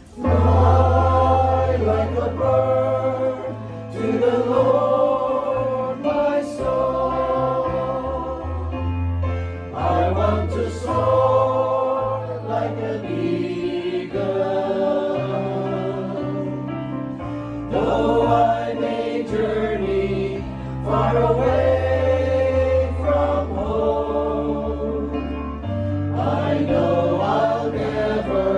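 Gospel-style choir singing held chords over a deep, sustained bass line.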